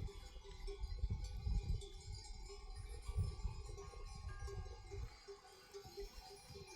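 Livestock bells on a goat and sheep herd clinking irregularly, with short ringing notes at uneven intervals. Low rumbles come and go under them for the first five seconds.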